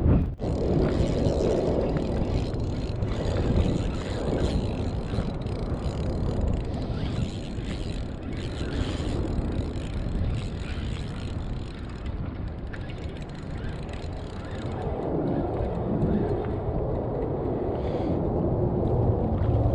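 Strong wind buffeting the microphone: a steady, rumbling noise with no clear tone.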